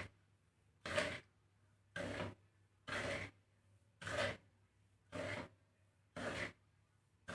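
A spatula stirring a mix of millet and rice grains as it is dry-roasted in a pan, each stroke a short rasping scrape of seeds sliding over the metal, about once a second.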